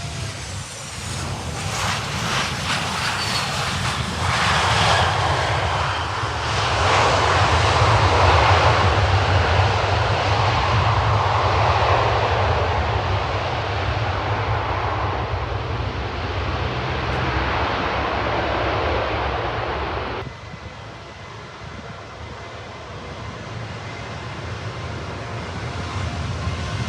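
Boeing 727 freighter's three JT8D turbofan jets running at high power, a loud roar that builds over the first few seconds, holds through the middle and drops off abruptly about twenty seconds in, then swells again near the end.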